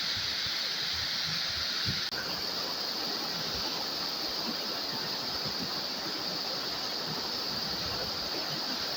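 Tall waterfall's water pouring down, a steady rushing noise with no breaks.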